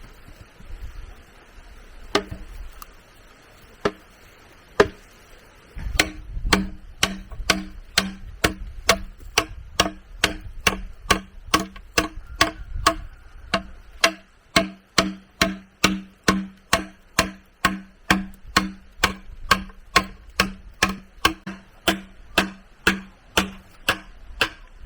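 Repeated tool strikes on bamboo, a few scattered blows and then a steady run of about two a second, each giving a short hollow ringing tone.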